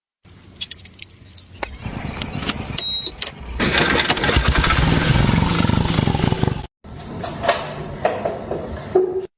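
A motorcycle engine being started, then running loud and rough for about three seconds before the sound cuts off abruptly. Scattered clicks and knocks come before and after it.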